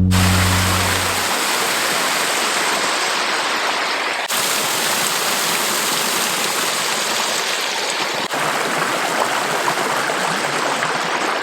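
Waterfall rushing: a steady, loud wash of falling water, briefly interrupted twice, about four and eight seconds in, by cuts between shots. A music track fades out at the start.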